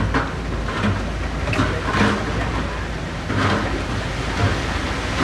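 Diesel engine of heavy construction machinery running steadily, with short brighter bursts of noise over it every second or so.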